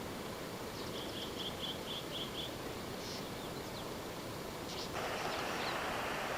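Outdoor bush ambience with a bird calling a quick run of about seven short, high notes, plus a few fainter calls. About five seconds in, a steady hiss gets louder.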